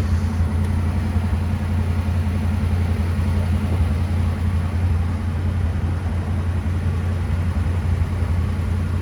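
1957 Ford Thunderbird's 312 Y-block V8 idling steadily.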